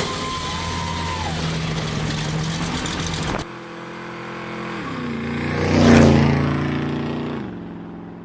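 Car engines running as cars drive off. About three and a half seconds in, one engine idles steadily and the sound changes abruptly. A car then passes, its engine swelling to its loudest about two-thirds of the way through and then fading away.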